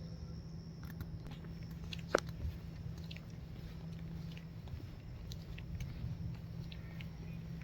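Steady low rumble with scattered faint clicks and light crunches, and a sharper click about two seconds in.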